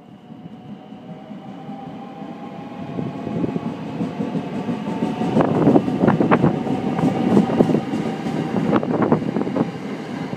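JR West 521 series electric train running past close by along the platform: its running noise builds over the first few seconds, with a steady whine underneath, and is loudest in the middle as the cars go by, the wheels clacking sharply over rail joints several times.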